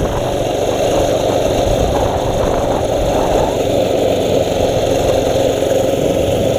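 Mini bike's small engine running steadily under way.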